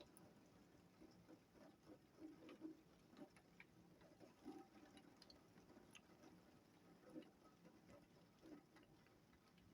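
Near silence, with faint ticks and taps coming at irregular intervals.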